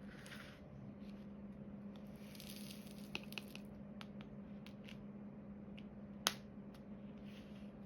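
Diamond painting: resin drills shaken and rattled in a tray in short rustling bursts, and the drill pen tapping drills onto the sticky canvas with light clicks, one sharper click about six seconds in. A steady low hum runs underneath.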